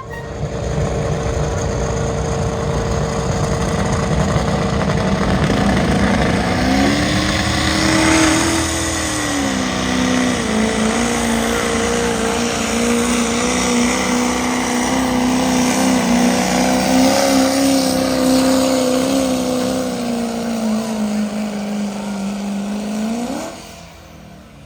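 Pulling-competition engine at full throttle hauling the weight sled. Its pitch climbs about seven seconds in, drops back and then holds steady; near the end it revs sharply up and cuts out.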